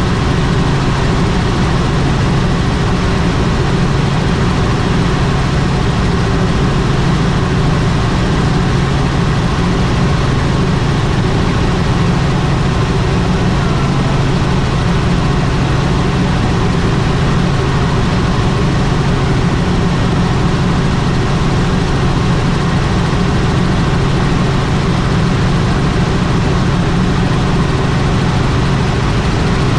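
Helicopter in flight: a loud, steady drone of engine and rotors that does not change.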